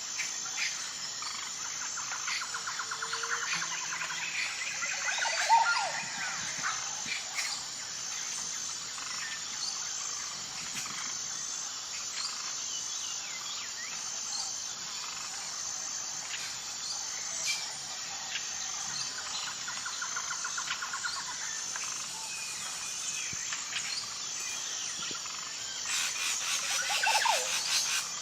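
Wild birds calling and chirping over a steady, high, pulsing insect drone, with stretches of rapid trilling. One louder call stands out about five seconds in, and another comes near the end.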